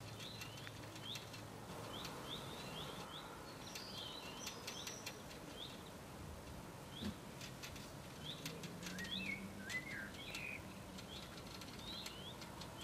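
Small garden birds chirping: a short high chirp repeated again and again, roughly once a second, with a few other bird calls among it.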